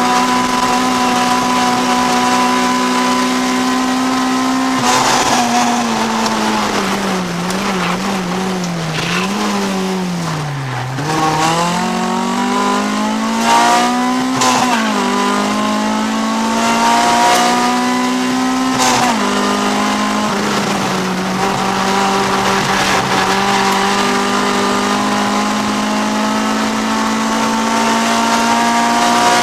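Honda CRX's B20 VTEC four-cylinder engine heard from inside the race car's cabin. The revs are held high for a few seconds, then fall in steps with brief blips as the car brakes and changes down for a slow corner, bottoming out around the middle. They then climb hard again, with two sharp drops at upshifts and a steady rise towards the end.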